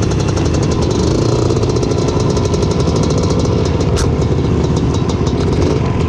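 Honda ATC250R three-wheeler's two-stroke single-cylinder engine running steadily, with an even, rapid pulsing and no revving up or down.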